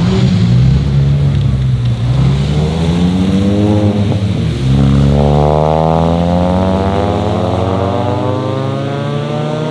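Mini Cooper S engine accelerating through the gears as it pulls away and passes: the pitch climbs, drops at a shift about two seconds in and again a little after four seconds, then rises steadily in a long pull to the end.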